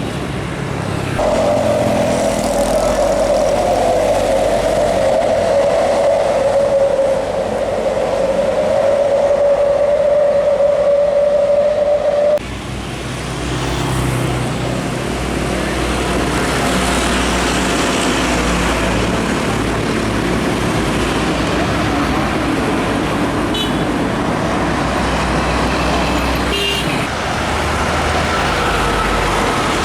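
Heavy trucks running past on a highway, a loud low rumble with tyre and engine noise. For the first twelve seconds a single long steady tone sounds over it and stops abruptly.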